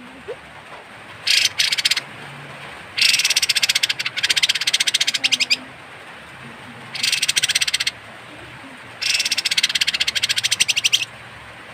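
Kapas tembak bird giving its harsh, rasping rattle call: several bursts, each a fast run of pulses lasting about one to two and a half seconds, with short pauses between.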